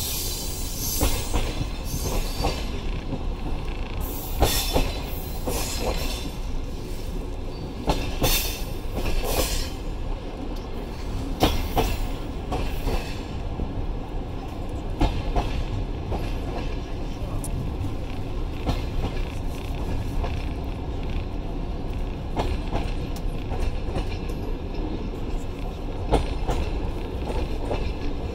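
Passenger railway carriage rolling along the track, heard from its open window: a steady low rumble of wheels on rails with irregular clacks and knocks as the wheels cross rail joints.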